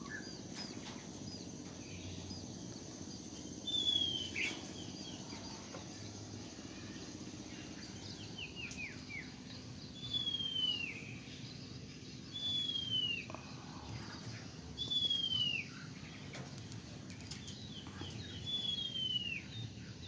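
Songbirds calling: one bird gives a clear, down-slurred whistle five times, a few seconds apart, with shorter falling chirps from other birds between.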